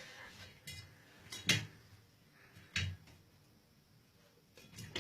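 Four light knocks in a small, echoing room, the loudest about a second and a half in, with quiet between.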